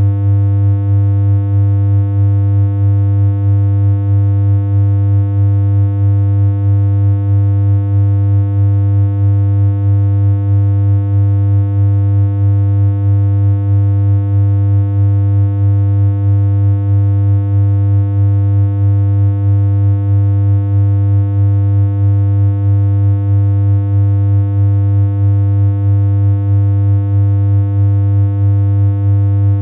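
Electronic synthesized hum: one low, unchanging pitch with a ladder of overtones above it, held without a break, with a faint regular wobble in loudness about twice a second.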